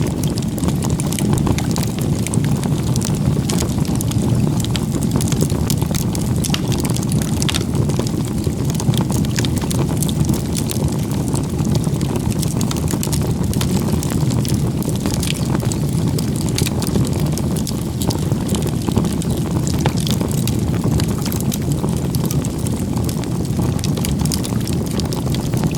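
Wood campfire burning: a steady low rush of flame with frequent sharp crackles and pops throughout.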